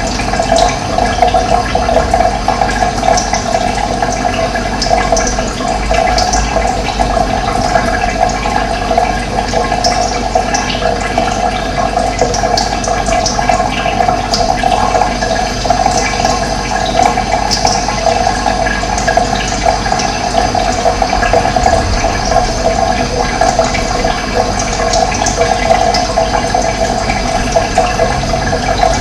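Running water flowing steadily, with birds chirping now and then over it in short, high calls.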